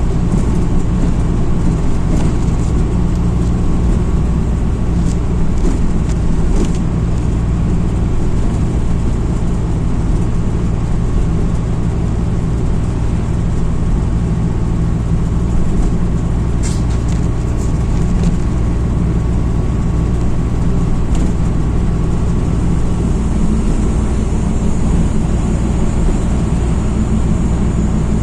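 Steady engine and road drone heard from inside a MAZ-206 city bus on the move, with a few light clicks of cabin rattle.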